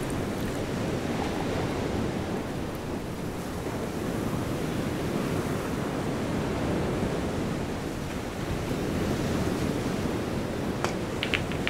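Ocean surf ambience: a steady rushing wash of waves that slowly swells and eases, with a few short clicks near the end.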